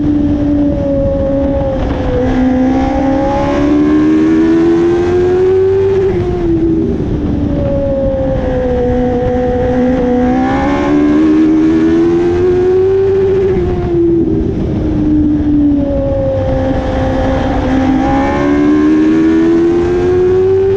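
Dwarf race car's engine running hard, its pitch climbing under acceleration and dropping as the throttle comes off, in a repeating cycle about every seven to eight seconds as the car laps the oval, over a constant rush of wind and road noise.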